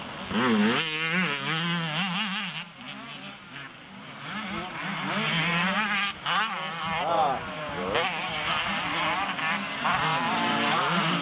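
Motocross bikes running on the track, engines revving up and down with the pitch rising and falling again and again. The sound drops off briefly about three seconds in.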